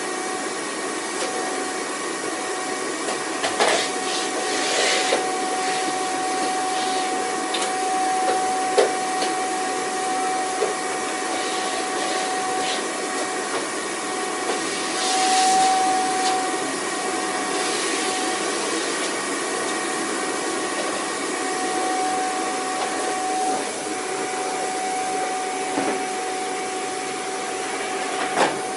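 Vacuum cleaner running steadily: an even rush of air with a constant motor whine. A few light clicks or knocks come through, and a short surge of hiss about halfway through.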